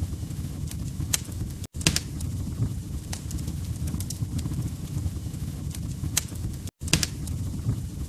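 Log fire crackling, with scattered sharp pops and snaps over a steady low rumble of burning. The sound cuts out completely for an instant twice.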